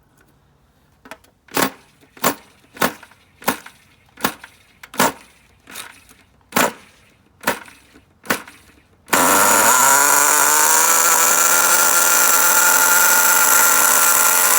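SH-18 nitro engine in an HPI RS4 3 Evo RC car being cranked over with about eleven short starter strokes, then catching about nine seconds in and running loudly and steadily at a break-in idle.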